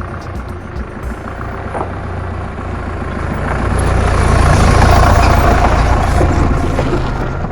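Motor vehicle running with steady engine and road rumble, growing louder about halfway through and easing off again near the end.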